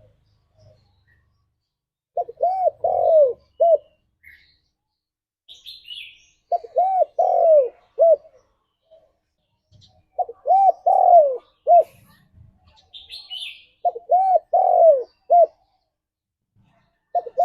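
Spotted dove cooing: four phrases about every four seconds, each a quick run of several hooting notes with a longer drawn-out note near the end. Faint high chirps from small birds are heard between the phrases.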